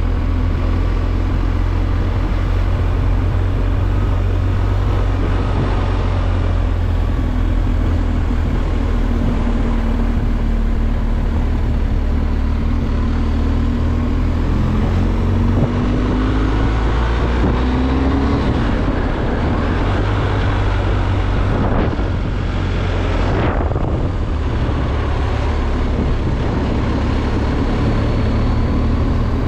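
BMW R 1250 GS Adventure's boxer-twin engine running while riding, its pitch rising and falling with the throttle, with wind rushing over the bike. About 23 seconds in, a brief whoosh sweeps down in pitch.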